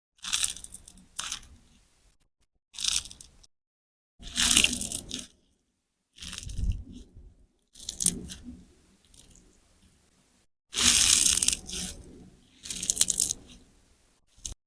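Sponge slime, a large sponge soaked with clear slime, squeezed and released by hand. It gives about eight crackling, squelching squeezes with short silences between them.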